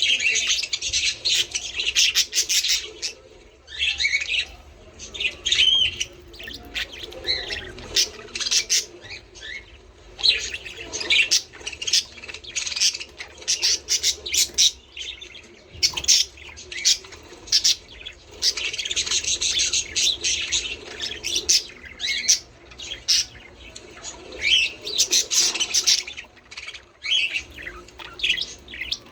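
A group of budgerigars chattering and warbling, a rapid, continuous stream of overlapping chirps, clicks and squawks.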